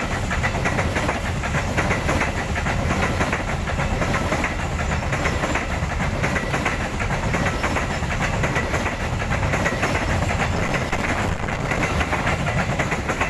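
Loaded Babaranjang coal train wagons rolling past, with a steady heavy rumble and rapid clacking of wheels over rail joints. A thin high ringing tone runs under the rumble.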